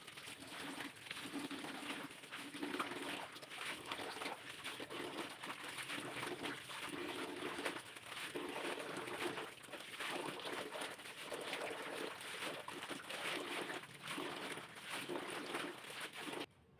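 Low cooing bird calls repeating every second or so, over scattered clicks and light clatter; everything cuts off suddenly near the end.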